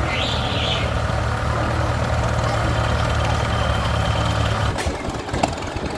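An engine idling steadily with a low hum, which stops nearly five seconds in. A brief high-pitched sound comes just after the start, and a few sharp clicks follow once the engine stops.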